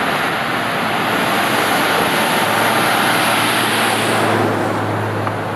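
Scania DSC12 12-litre diesel of a Scania K360IB coach running as the coach drives by. The noise swells to its loudest about three seconds in, with a steady low engine hum from about two seconds in, and the high hiss dies away near the end.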